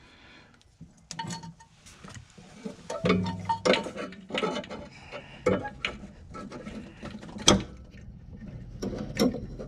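Irregular clicks, clinks and knocks of a new fuel filter and its fuel line fittings being handled and positioned, with one sharp knock about seven and a half seconds in.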